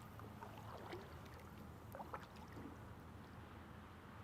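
Faint water trickling and dripping around a kayak, with a few small drips about a second and two seconds in.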